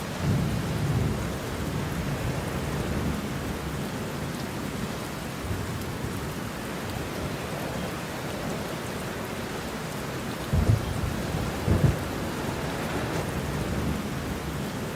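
Steady rain with rolls of thunder: a low rumble swells just after the start, and two short, loud low cracks of thunder come about ten and twelve seconds in.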